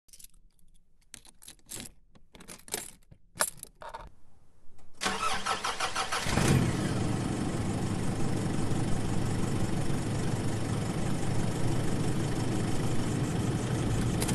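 A few clicks and knocks, then a car engine cranks and starts about five seconds in and runs steadily.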